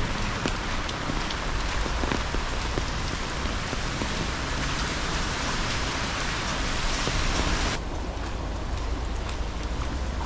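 Steady rain falling, a dense hiss dotted with sharp drop ticks over a constant deep rumble. About eight seconds in, the hiss suddenly turns duller and quieter.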